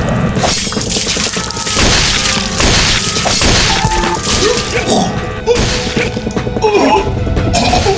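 Background music layered with dubbed fight sound effects: a series of crashes, smashes and thuds, busiest in the first half.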